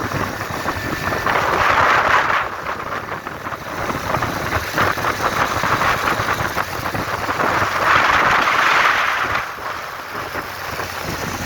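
Motorbike engine running during a ride, with wind buffeting the microphone; the sound swells louder twice, briefly.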